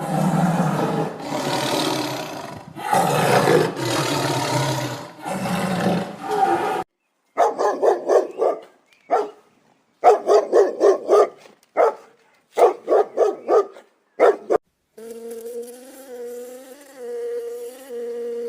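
A sequence of animal calls. It opens with about four long, rough roars, then gives way to groups of quick, short, barking calls, several a second. Near the end comes a steady, slightly wavering insect buzz.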